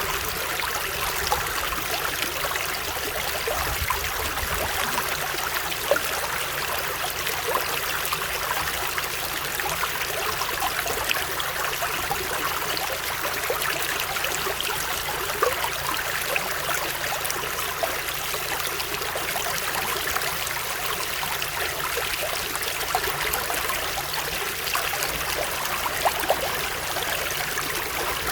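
Water running steadily over stones, like a stream, with many small splashes and drips flecking the steady rush.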